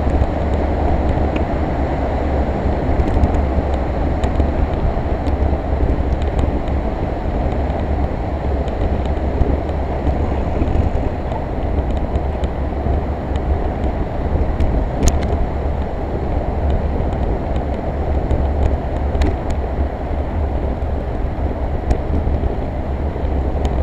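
Strong wind rumbling on the microphone, steady and loud, with a few faint clicks.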